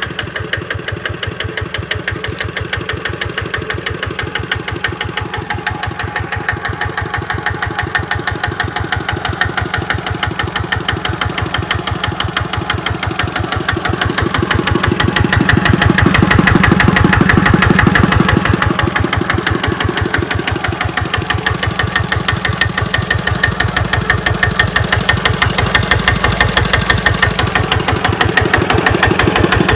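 Kubota RT90 walking tractor's original single-cylinder diesel engine running with a steady, even chug. It grows louder about halfway through, then eases back.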